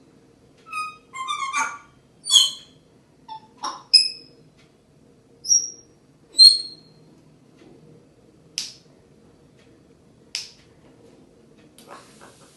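African grey parrot whistling: a run of short, high whistled notes over the first seven seconds or so, then two short harsh squawks, and a brief hiss near the end.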